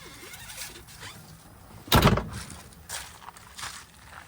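Footsteps crunching through dry, crispy grass, a step about every second, with one louder crunch about halfway through.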